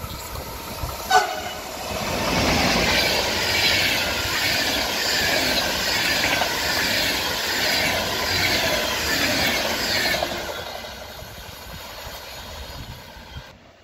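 Electric intercity train passing at speed: a short horn blast from the Siemens EU44 locomotive about a second in, then a loud rush of the coaches going by with rhythmic wheel clatter for about eight seconds, fading away near the end.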